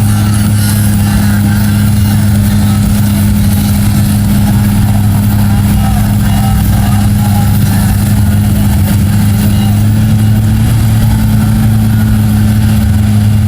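A mega truck's big engine running hard at a steady held pitch, a loud, unbroken deep drone, as the truck works through the mud.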